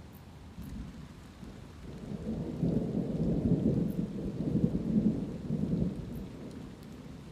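Light rain falling steadily, with a roll of thunder that builds about two seconds in, rumbles loudest in the middle and eases off near the end.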